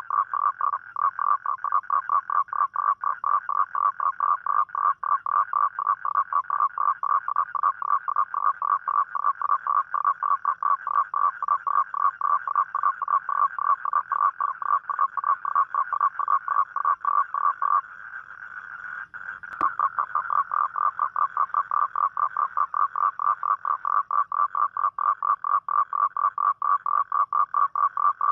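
Toad calling at night: a long, steady trill of rapid evenly spaced pulses, about four or five a second. It breaks off briefly about two-thirds of the way in, with a single sharp click as it starts again.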